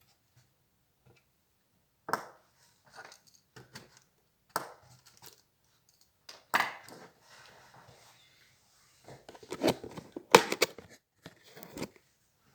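Parts of an HP Compaq 6910p laptop being handled and pried apart during disassembly: scattered sharp snaps and scrapes, starting about two seconds in, with a busier run of clicks near the end.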